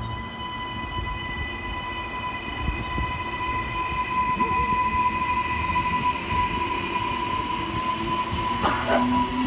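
Train running past, a steady rumble with a constant high-pitched whine over it and a brief knock about nine seconds in.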